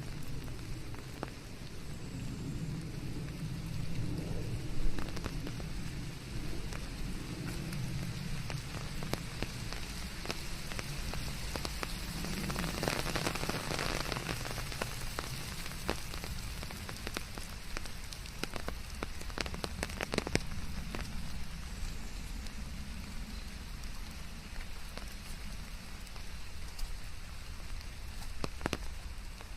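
Steady rain falling, with many close drops ticking sharply over an even white-noise hiss; the rain thickens for a few seconds about halfway through, and one sharper tick stands out about five seconds in.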